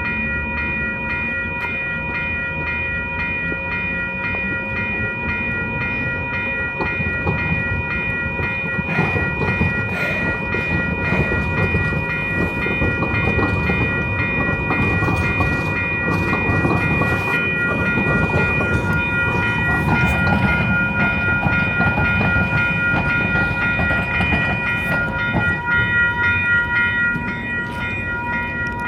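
A San Diego light-rail trolley passes, its wheels rumbling and clacking on the rails for most of the stretch, then fading near the end. Several steady high tones sound over it throughout.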